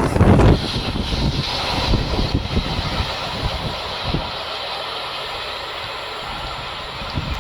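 Freight train rolling past, with wheels clattering over the rails and scattered sharp knocks. It is loudest in the first half second, then the noise gradually eases off as the train moves away.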